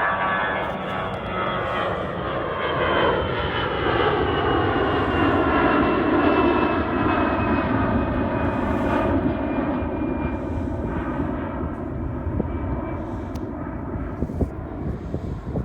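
Jet airliner's engines at takeoff power as it passes: a whine that falls in pitch over the first few seconds, over a rumble that swells to its loudest about six seconds in and then slowly eases.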